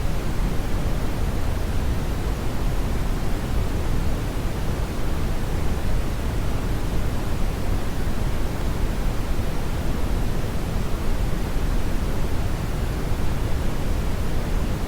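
Synthetic brown noise: a steady, even rush strongest in the deep bass and fading toward the highs, with no changes or events.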